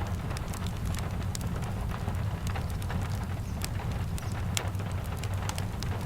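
Steady rain with a deep low rumble underneath and many scattered sharp ticks and crackles, several a second.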